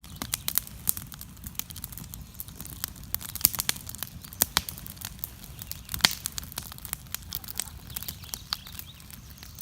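A patter of many irregular light ticks over a steady low rumble.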